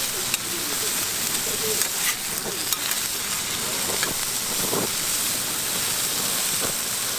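Food frying on a hot griddle: a steady sizzle, with a few light clicks.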